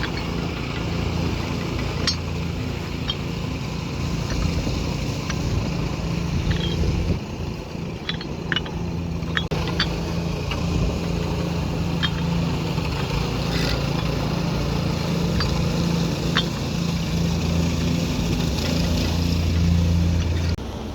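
Excavator engine running steadily at a constant pitch, with scattered sharp metallic clicks and clinks.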